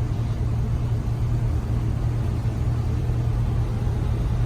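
Car engine running steadily, a constant low rumble with no change in pitch or level.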